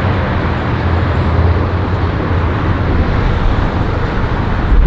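Strong wind buffeting the handheld camera's microphone: a loud, steady low rumble with a rushing hiss.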